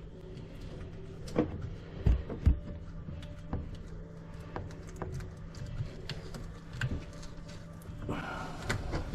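Scattered light knocks and clicks of pipe and tools being handled during drain-line work, a few sharper knocks standing out, over a steady low hum.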